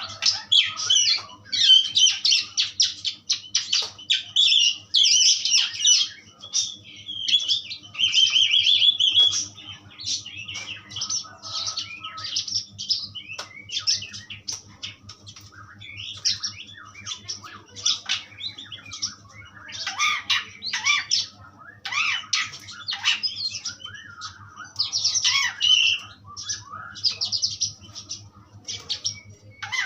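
Asian pied starling (jalak suren) singing a fast, varied stream of chattering, squawking and whistled notes, densest over the first nine seconds and again about twenty to twenty-six seconds in. A faint steady low hum runs underneath.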